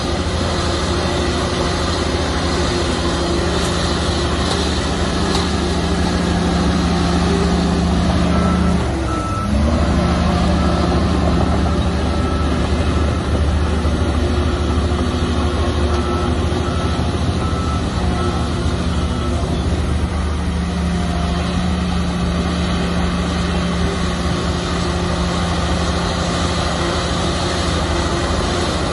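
Heavy diesel earthmoving machinery running steadily. The engine note dips and recovers about nine seconds in. A reversing alarm beeps in two runs of short, evenly spaced beeps.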